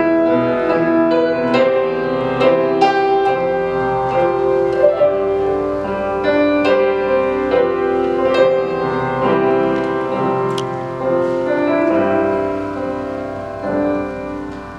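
Piano playing an instrumental interlude of struck chords and melody notes, with no singing.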